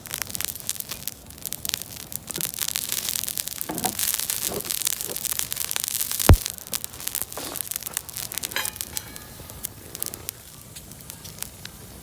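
Wood campfire crackling and popping in quick irregular snaps over a steady hiss, with a single sharp thump about six seconds in.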